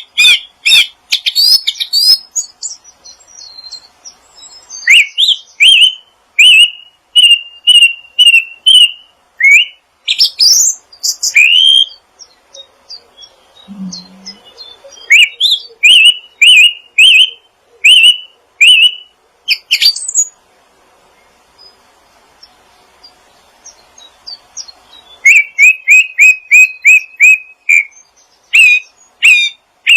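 Songbird chirping loudly in quick runs of short, sharp, upward-sweeping notes, several a second, with pauses of a few seconds between runs.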